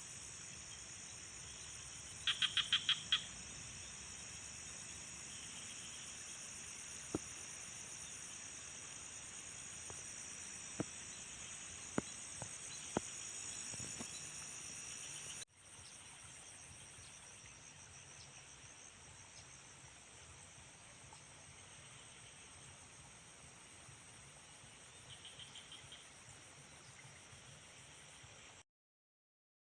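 Rice-paddy night chorus: a steady high-pitched trilling of insects, with a frog's short, rapid pulsed call about two seconds in and another near the end. A few sharp clicks come in between, and the chorus drops quieter about halfway through.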